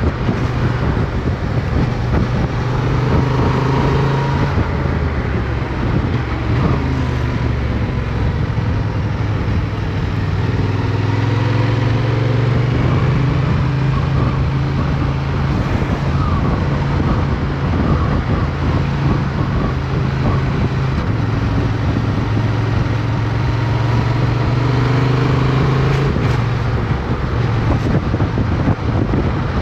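Motorcycle engine running under way, its note changing several times as the rider works the throttle and gears, higher around the middle and dropping and climbing again near the end.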